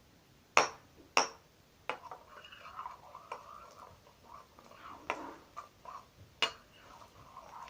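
Sticky homemade slime being mixed and squished by hand: soft squelching with several sharp pops and snaps, the loudest two about half a second and a second in.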